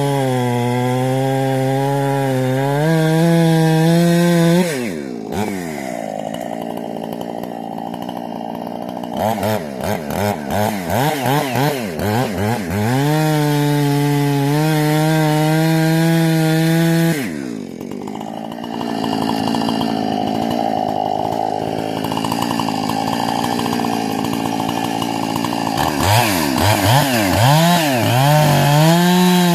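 Husqvarna 460 two-stroke chainsaw with a modified carburettor and muffler running at full throttle. Its pitch drops twice as the chain loads up in the cut, wavers up and down repeatedly while cutting, and climbs back to a steady high whine when the saw runs free between cuts.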